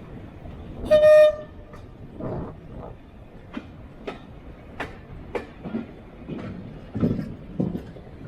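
Train on a heritage railway giving one short toot on its whistle or horn about a second in, the loudest sound here. It is followed by a string of sharp, irregularly spaced knocks over a steady rumble as the train moves.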